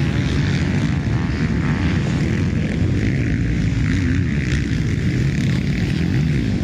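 Several motocross bikes racing on the track, their engines making a continuous loud buzz, with an engine revving up and down a couple of times.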